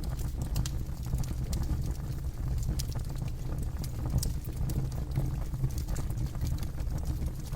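Campfire burning, with a steady low rumble and irregular sharp crackles and pops from the burning wood.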